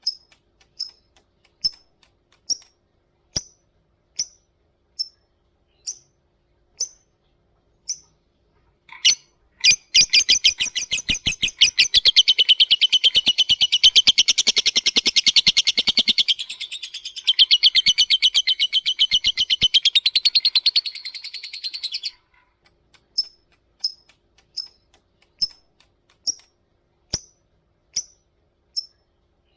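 Lovebird calls: short, sharp high chirps repeated about once every 0.8 seconds (ngetik), breaking about ten seconds in into a long, fast rattling chatter (ngekek) that lasts about twelve seconds with one brief break, then returning to the spaced single chirps.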